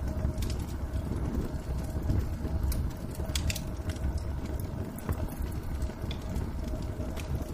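Wood fire burning in a fireplace: irregular sharp crackles and pops over a steady low rumble, with a faint steady hum.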